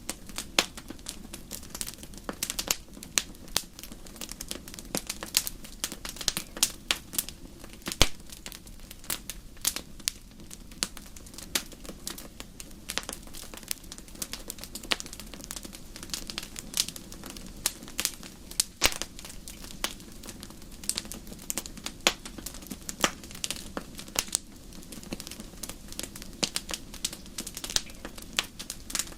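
Campfire crackling, with irregular sharp pops and snaps over a steady low background.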